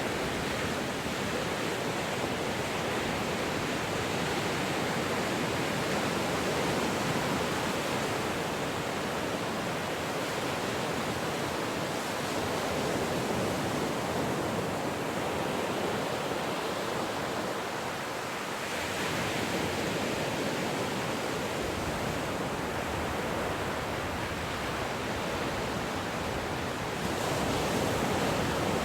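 Ocean waves washing onto a shore, a steady rushing surf that swells and eases gently, with a slight dip in the middle and a fresh swell near the end.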